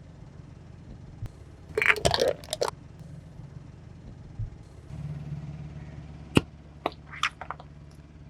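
A car tyre rolling slowly over crunchy objects and crushing them: a burst of crackling and snapping about two seconds in, then a few sharp single cracks near the end. Under it the car's engine hums steadily, louder from about halfway through.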